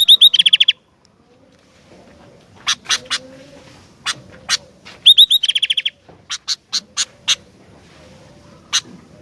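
Sooty-headed bulbul (kutilang) singing: two quick rattling bursts of about ten rapid notes, one at the start and one about five seconds in, with sharp single chirps between them.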